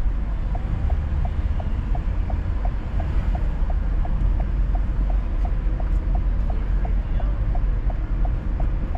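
Steady low rumble of a car driving, with a light, regular ticking about three times a second.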